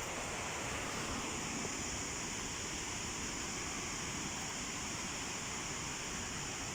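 Steady rush of water from a waterfall and stream, an even unbroken noise.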